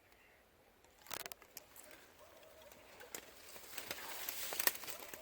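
Rustling and crackling of someone pushing on foot through dry undergrowth, with a cluster of snaps about a second in and denser crackling that builds near the end.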